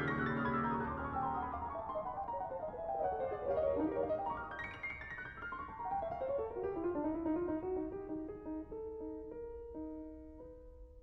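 Background piano music: quick cascading runs of notes falling in pitch, a fast upward sweep about four seconds in, then slower falling notes that settle into a few held notes and fade near the end.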